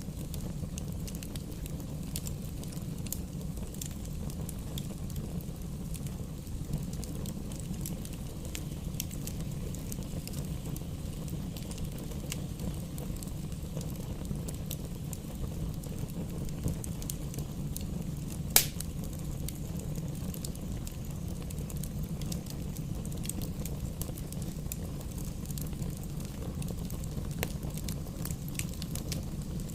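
Campfire crackling, with many small sharp pops over a low steady rumble of burning. One loud pop comes about eighteen seconds in.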